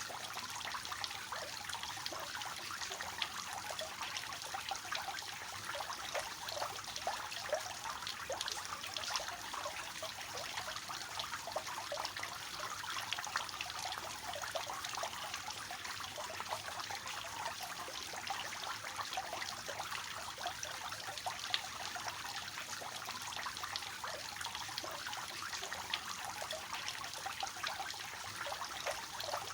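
Water falling from a three-tier cascading fountain, a steady splashing and trickling with many small splashes.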